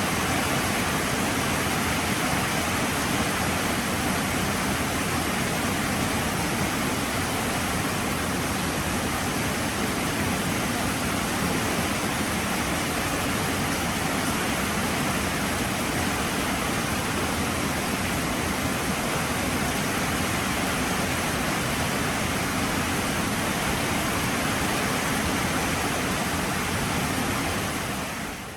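Heavy rain falling steadily, fading out near the end.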